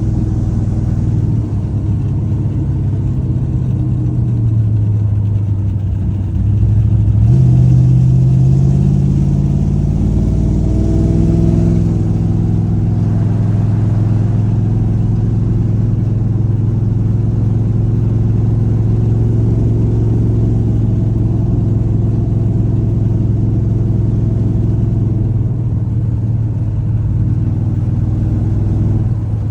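A Plymouth Duster's V8, swapped in for the original slant six, running as the car is driven. About seven seconds in the engine pulls harder, its pitch rising for several seconds, then it settles into a steady cruise.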